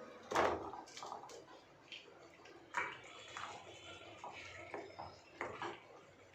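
Faint scattered clicks and knocks with light watery handling sounds, the sharpest about half a second in and again just before three seconds.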